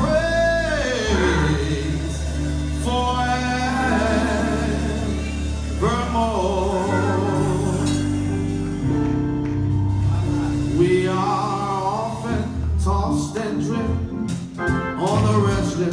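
Gospel hymn singing with instrumental accompaniment under a steady bass line. The voice draws out long, wavering phrases with runs between the held notes.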